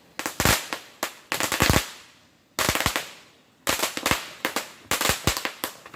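Firecrackers going off in rapid strings of sharp bangs, in several bursts with short pauses between.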